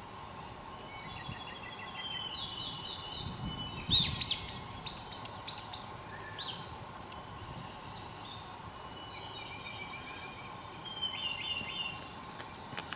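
Wild songbirds singing: a trilled phrase near the start and another late on, and a loud run of about six quick, sharp notes about four seconds in. A faint steady hum runs underneath.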